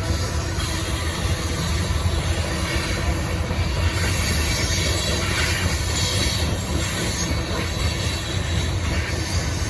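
Cars of a BNSF coal train rolling past, a steady heavy rumble of steel wheels on the rails with a high metallic wheel squeal over it.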